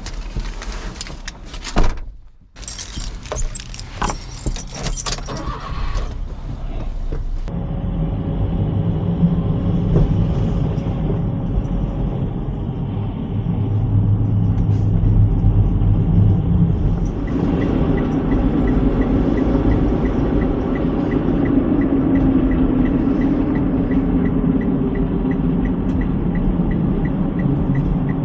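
Kei truck driving: a steady engine and road drone that settles in about eight seconds in. The first seconds hold knocks and clatter, and a regular light ticking joins about two-thirds of the way through.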